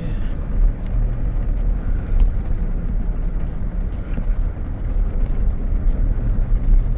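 Four-wheel-drive vehicle driving on a dirt track: a steady low rumble of engine and tyres.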